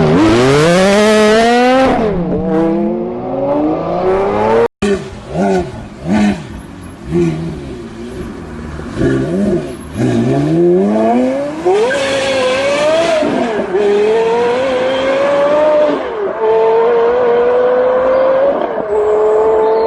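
Porsche Carrera GT's V10 engine accelerating hard, its pitch climbing and then dropping at each upshift. In the middle come a series of short throttle blips, after which it pulls through the gears again at high revs.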